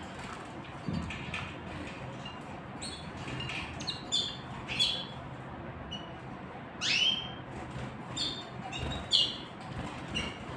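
Small songbirds chirping: scattered short, high chirps, with one longer upward-sweeping call about seven seconds in.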